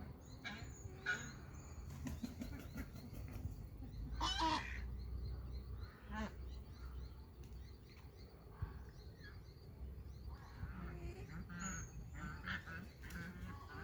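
Birds calling: scattered short, harsh calls, the loudest about four seconds in and a busier run of calls near the end, over a steady low outdoor rumble.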